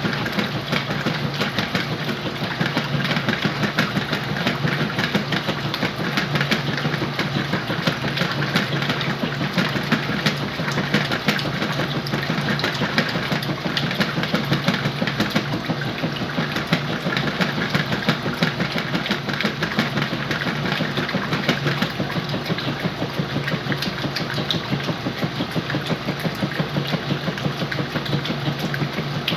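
Whirlpool washing machine running a load of sheets and pillows: a steady motor hum with a fast, continuous rattle.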